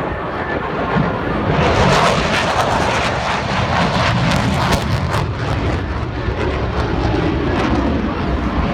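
Airplane engine noise, loud and steady, with a harsher crackly stretch from about two to five seconds in.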